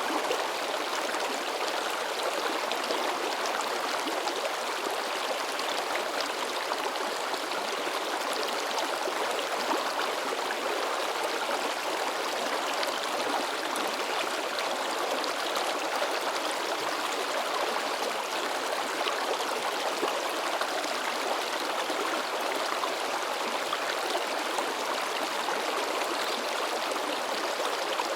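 Shallow river babbling and splashing over rocks: a steady, even rush of water.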